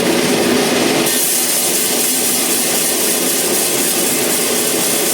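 Sawmill saw cutting eucalyptus wood, a loud steady mechanical noise. About a second in the sound shifts to a brighter, hissier tone, which then holds.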